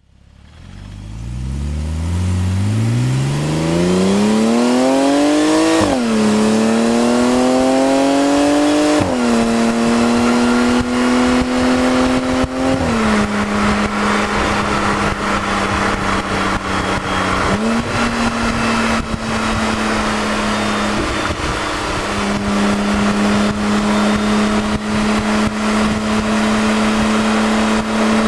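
Porsche Cayman 2.9 flat-six through a Remus aftermarket exhaust, accelerating hard. The note climbs steeply from low revs, drops sharply at two quick upshifts about six and nine seconds in, steps down again a little later, then holds steady at cruising revs with a couple of brief dips.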